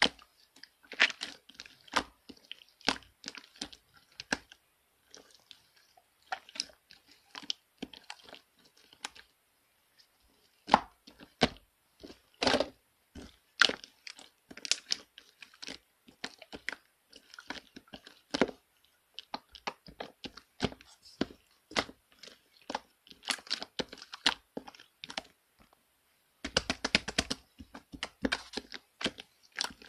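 Hands working a marbled slime, pressing and stretching it so that it gives off irregular sticky pops and clicks in loose clusters. A dense run of quick pops comes near the end.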